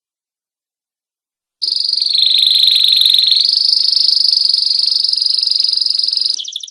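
Domestic canary singing one long, very fast rolling trill, high-pitched and loud, starting about a second and a half in. The trill steps slightly higher partway through and closes with a brief different phrase.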